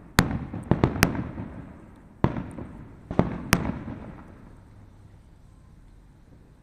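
Fireworks bursting: a quick run of sharp bangs in the first second, more about two and three and a half seconds in, each trailing off in echo, then the noise dies away.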